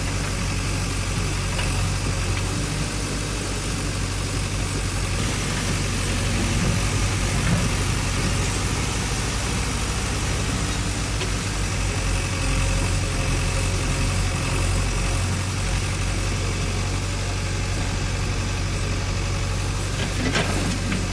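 Heavy diesel engine idling steadily, with no change in speed.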